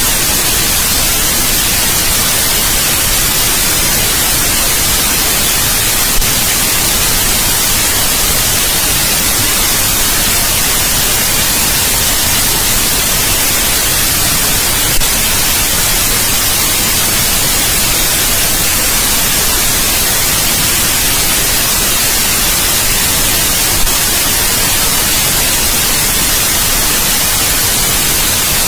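Steady white noise: an even, unbroken hiss, bright in the highs, with a slight click three times at even spacing.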